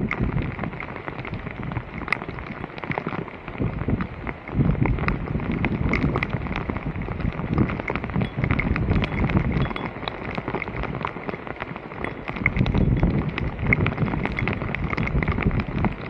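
Wind buffeting the microphone, a rumble that swells and fades unevenly, with many small crackles and ticks scattered throughout.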